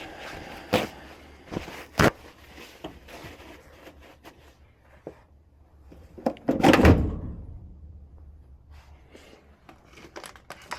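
Sharp knocks and clunks of hard parts being handled at a furnace: two sharp knocks in the first two seconds, then a louder clattering clunk about two-thirds of the way through that trails off.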